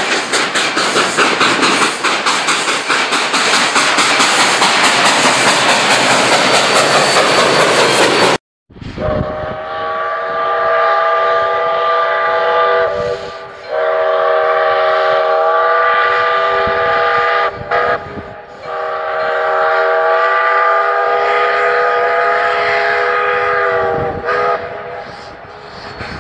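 Steam locomotive No. 28 working hard, its exhaust chuffing in a rapid, dense beat with steam hiss. After a cut, its chime steam whistle blows two long blasts, a short one and a long one, the grade-crossing signal.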